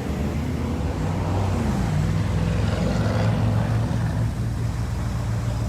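Car engine running at low revs, a steady deep rumble with a slight rise and fall in pitch about two seconds in.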